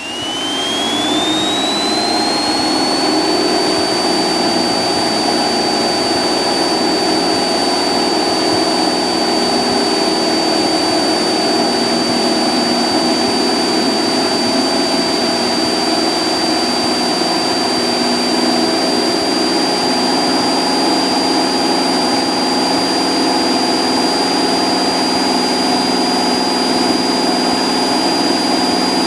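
Cessna 172's engine and propeller at full takeoff power. It builds over the first second or two, with a high whine that climbs in pitch and then holds, and stays steady from then on.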